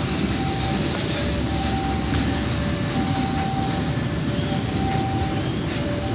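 A passenger train running past, with a steady, loud rumble of wheels and carriages. Above it, a high two-note tone alternates about once a second.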